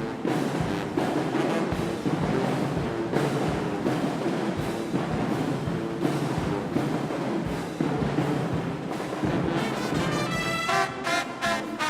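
Marching band playing live: drums beating throughout under a dense wash of sound, with held brass chords coming in near the end.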